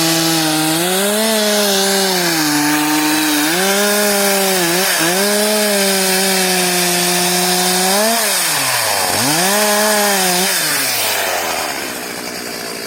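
Petrol chainsaw running at high revs while cutting wood, its engine pitch sagging and recovering as it works. The revs dip sharply about five seconds in and again around nine seconds, then fall away near the end as the throttle is released.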